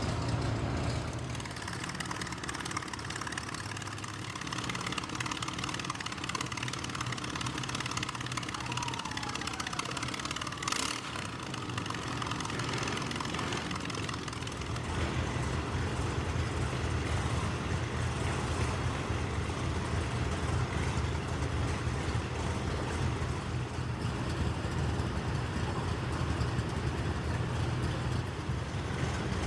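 Engines of pre-WWI vintage race cars running at low speed, a steady low rumble that grows fuller about halfway through, with one sharp click near the middle.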